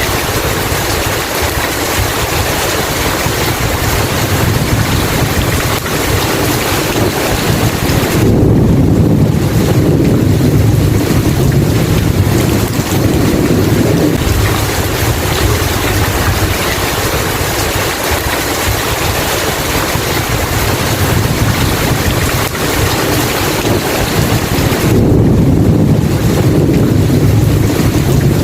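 Heavy rain falling steadily, with a long roll of thunder swelling up about eight seconds in and another near the end.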